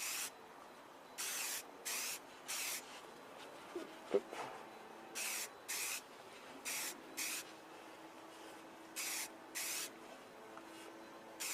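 Aerosol can of black paint spraying in short bursts, about ten quick hisses in groups of two or three.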